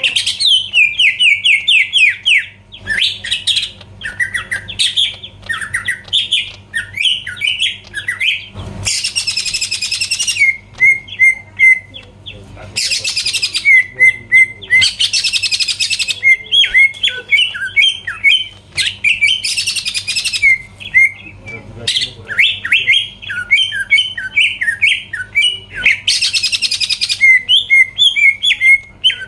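Cucak ijo (green leafbird) singing in full voice: rapid runs of short, quick sweeping whistled notes, broken about every six seconds by a harsh, buzzy rasp lasting over a second.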